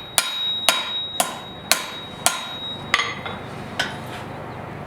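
Blacksmith's hand hammer striking a forged steel blade on an anvil, smoothing out hammer marks on the back. Six evenly spaced, ringing blows come about two a second, followed by two lighter, slower taps.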